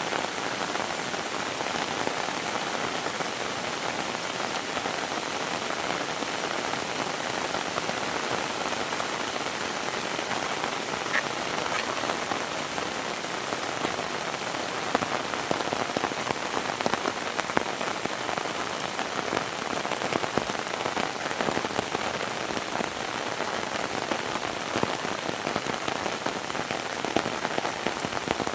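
Heavy rain falling: a steady, dense hiss of rain with close drop impacts pattering through it, a little harder in the second half.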